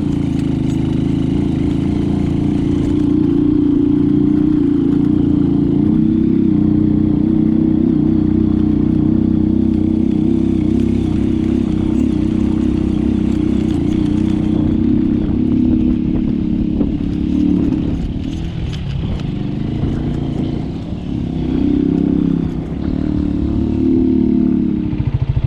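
Motorcycle engine running steadily while riding. In the last several seconds the engine note wavers, rising and falling, as the bike slows.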